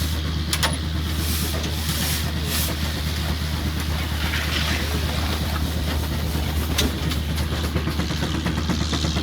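An engine running steadily with a fast, even low pulse, and a few sharp clicks over it.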